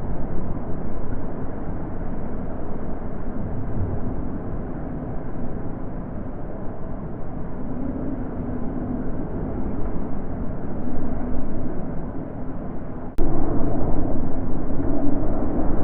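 Natural wind blowing in gusts, a steady rushing that swells and eases. About thirteen seconds in, it abruptly steps up louder.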